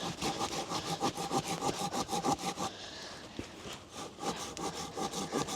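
Hand saw cutting through a wooden log in quick, regular back-and-forth rasping strokes, with a faint ringing tone from the blade. The strokes break off for about a second near the middle, then start again. The blade is dull and loose, and the sawyer says it needs sharpening.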